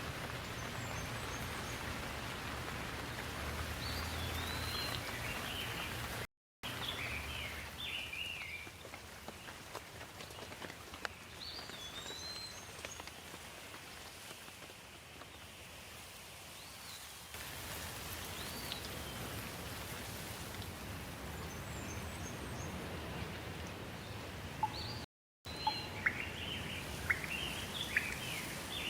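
Steady rain falling, with birds chirping on and off over it. The sound cuts out completely for a moment twice, about six seconds in and near the end.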